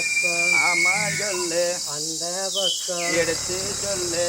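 Forest insects, crickets, chirring steadily in a high band. A person's voice, with no clear words, runs through the first three seconds and then gives way to a broad hiss.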